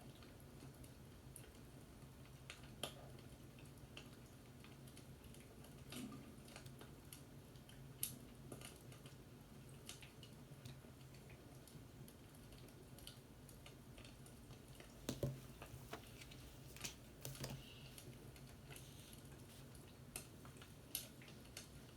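Faint, sparse clicks and taps at irregular intervals over a low steady hum, a few slightly louder around the middle and near the end.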